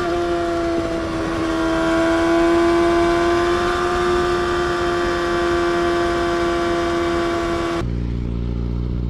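Yamaha R6 inline-four with a full Akrapovic exhaust held at high revs: a steady, high-pitched engine note that barely changes pitch. Near the end it cuts off abruptly to a deeper, lower engine note.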